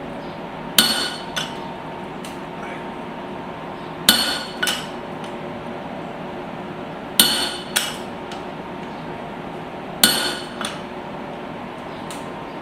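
Hand hammer driving a punch into a hot steel hammer head to punch the eye: four heavy ringing blows about three seconds apart, each followed by a lighter tap. A steady hum runs underneath.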